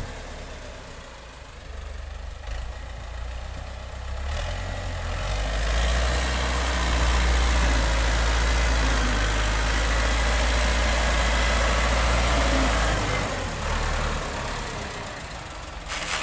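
Tractor engine running, louder through the middle of the stretch and easing off near the end.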